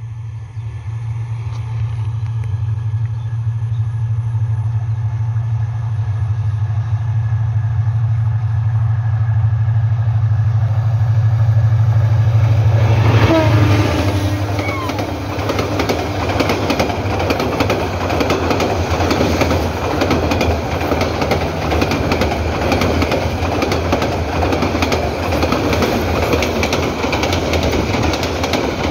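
Diesel-hauled passenger train approaching and passing close by on the rails. A low steady engine drone grows louder until the locomotive passes about halfway through. Then the coaches rattle and clatter past on the track.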